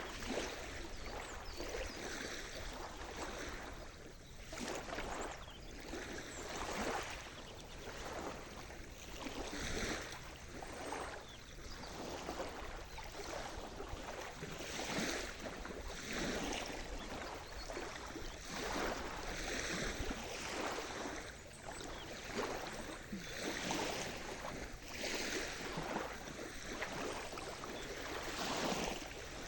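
Sea surf washing on the shore: a continuous rushing wash of water that swells and falls back in irregular surges every second or two.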